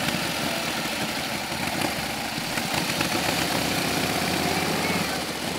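Vintage motorcycle engine of 1915 or earlier running at low speed, a steady, rapid beat of firing pulses.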